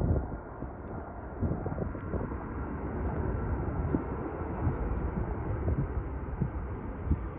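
Jet airliner engines giving a steady rumble and hiss, with a faint whine coming in during the second half. Wind buffets the microphone with low thumps.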